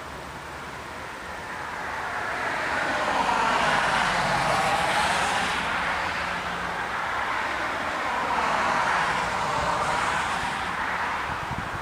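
Two road vehicles passing by one after the other, their tyre and engine noise swelling and fading, the first about four seconds in and the second about nine seconds in.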